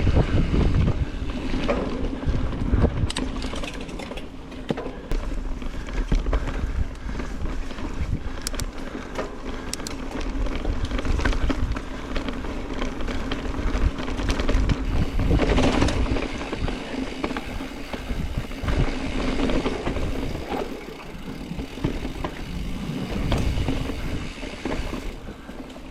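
Specialized Stumpjumper EVO Comp mountain bike being ridden on a dirt trail: wind rushing over the microphone over a low tyre rumble, with scattered clicks and rattles from the bike.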